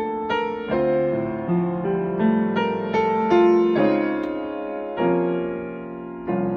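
Solo piano playing a slow hymn accompaniment, chords and melody notes struck about every half second and left to ring and fade.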